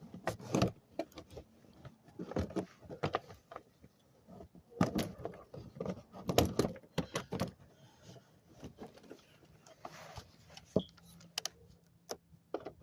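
Irregular clicks, knocks and light rattles of a plastic underbody panel and its fasteners being handled and fitted into place under a car.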